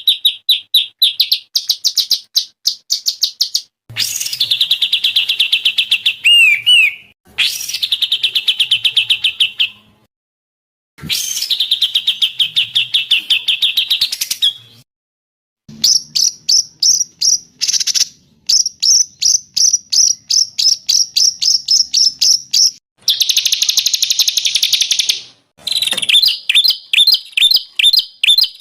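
Songbirds singing high, rapid trills and fast strings of repeated chirping notes, in phrases of a few seconds each that start and stop abruptly with short gaps between them. This is a birdsong 'masteran' track, edited from recordings and used to teach caged songbirds.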